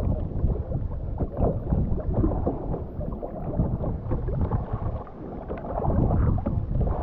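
Sea kayak being paddled: water splashing and gurgling against the hull and paddle, with wind on the microphone. It dips briefly about five seconds in and grows louder again toward the end.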